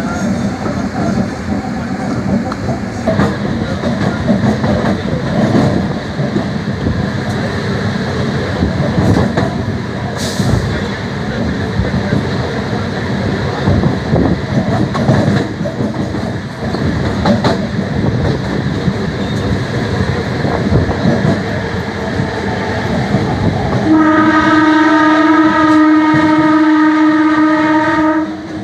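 MEMU electric train running along the track, a steady rumble with scattered clicks and knocks from the wheels. About four seconds from the end, a train horn sounds one steady note and holds it for about four and a half seconds.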